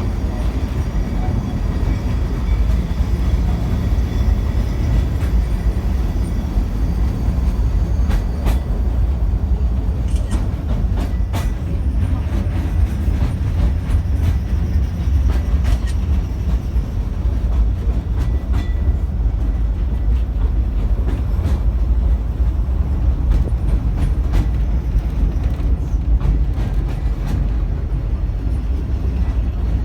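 Cable-hauled Great Orme Tramway car running on its track, a steady low rumble with occasional sharp clicks and knocks.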